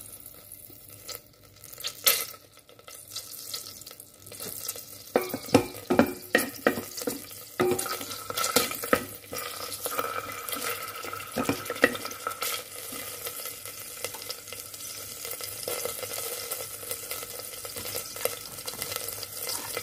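Ginger slices frying in sesame oil in a stainless steel Instant Pot inner pot, a steady light sizzle. A wooden spoon stirs and scrapes the pot, with sharp taps and knocks against the metal, most of them in the first half.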